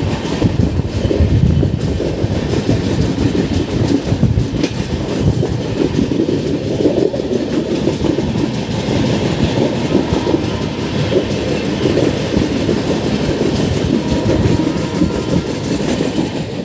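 An LHB passenger coach running at speed, heard from its open door: a steady rumble of wheels on rail, with occasional clacks over rail joints.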